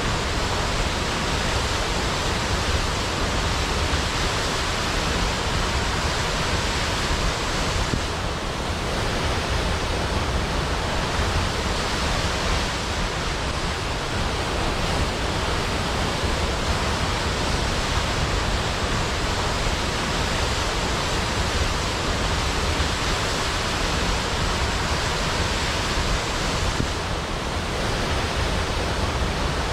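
Large waterfall tumbling into a pool: a steady, even rush of falling water that eases slightly twice, about eight seconds in and near the end.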